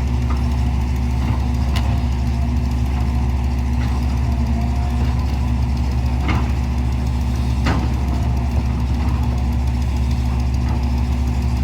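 An engine idling steadily, with a few sharp clicks or knocks laid over it.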